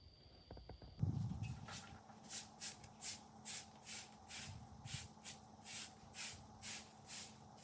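Rhythmic rasping strokes, about three a second, beginning about a second in.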